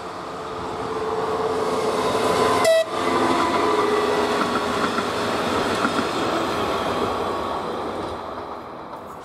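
A train passing close by, its noise swelling to a peak about three seconds in and then slowly fading. Steady horn tones sound while it is loudest.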